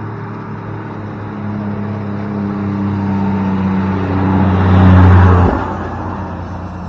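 Car engine and road noise building steadily to a peak about five seconds in, then dropping off sharply.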